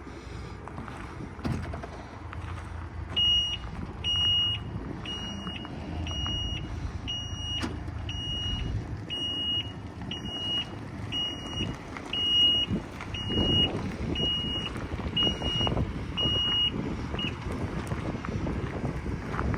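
Electronic warning beeper on a bucket truck sounding in a steady series of about fifteen high beeps, roughly one a second, then stopping. Underneath is the truck's engine running, with wind on the microphone.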